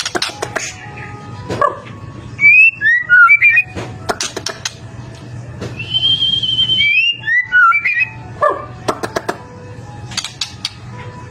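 White-rumped shama (murai batu) singing: repeated phrases of loud, falling whistled notes mixed with sharp clicks, and one long held whistle about six seconds in.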